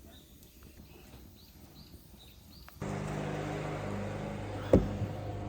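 Small birds chirping faintly, a few short chirps at a time; about three seconds in the sound cuts suddenly to a steady low hum, with a single thump near the end.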